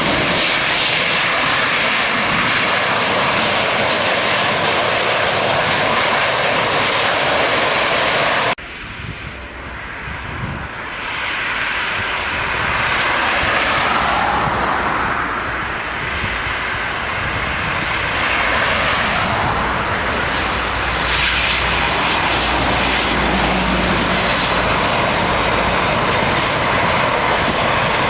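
Landing jet airliners passing close, a loud, even rush of engine noise. It cuts off abruptly about eight seconds in, then after a few quieter seconds the jet noise swells up again and holds.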